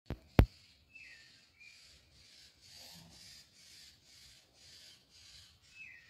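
Two sharp clicks at the very start, the loudest sounds here, then a soft rasping hiss repeating about one and a half times a second. Over it a bird gives short chirps, the first falling in pitch, two about a second in and one near the end.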